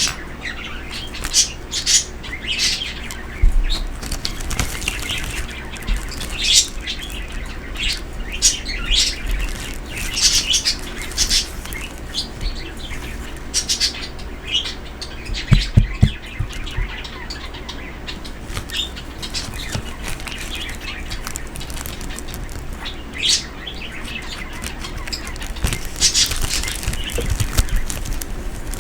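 Pet birds chirping: short, high chirps come again and again at uneven intervals, with a few soft low thumps in between.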